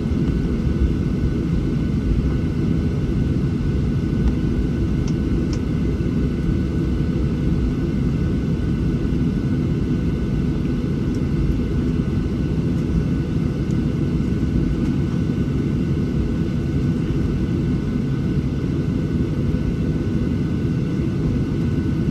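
Steady low cabin rumble of a Boeing 737-700 with its CFM56-7 jet engines running, heard from inside the passenger cabin, with a faint steady whine above it. The loudness stays even throughout, with no clear build-up or fall-off.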